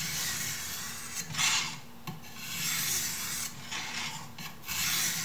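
A knife blade being drawn across a sharpening stone in several back-and-forth rasping strokes of uneven length.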